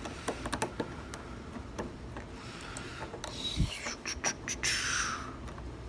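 Lock-picking tools working in a bubblegum machine's worn dimple lock cylinder: irregular small metallic clicks with brief scraping as the plug is tried in both directions. The plug will not turn because a loose pin is jamming the cylinder.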